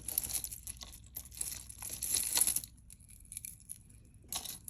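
Crinkling and rustling of plastic packaging being handled, in dense bursts for the first two to three seconds and again briefly near the end.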